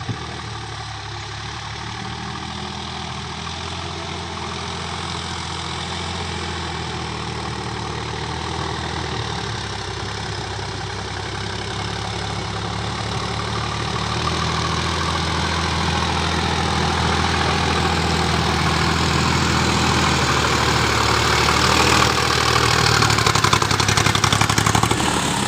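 Sonalika DI 50 hp tractor's diesel engine running steadily, growing gradually louder over about twenty seconds and easing off a little near the end.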